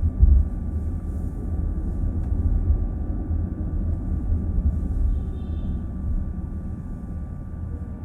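A moving car heard from inside the cabin: a steady low road and tyre rumble, easing a little near the end.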